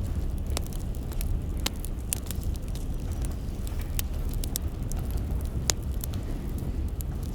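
Burning firewood crackling: irregular sharp pops and snaps over a low steady rumble.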